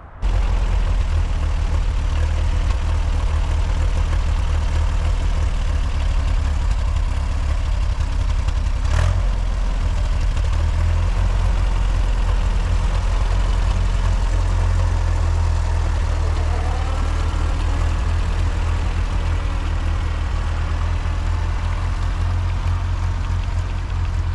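Vehicle engine and road noise heard from inside the cab while driving: a steady low rumble, with a single sharp click about nine seconds in.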